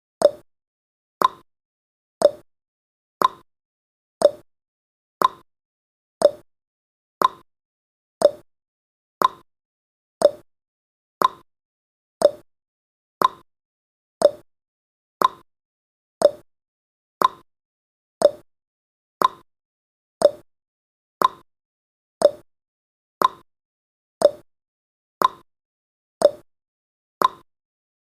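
Countdown timer's tick sound effect: a short, sharp click once every second, evenly paced, each dying away quickly before the next.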